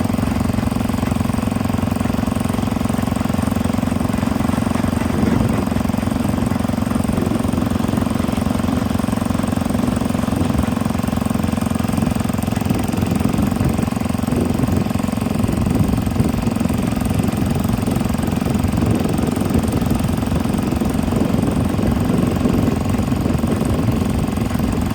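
Small engine running steadily with a rapid, even firing beat.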